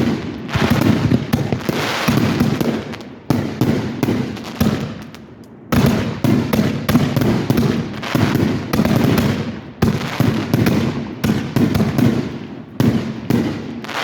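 Fireworks going off in a dense, rapid barrage of bangs and crackling, with a brief lull about five seconds in before the bursts pick up again.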